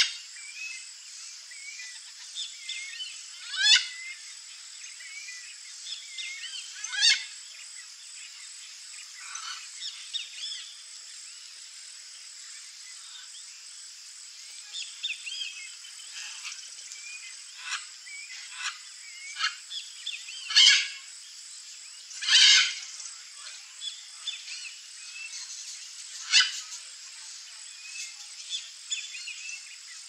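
Wild birds calling in natural surroundings: many short chirps and calls, with a few loud, harsh calls standing out, the loudest two about two-thirds of the way through, over a steady high-pitched background drone.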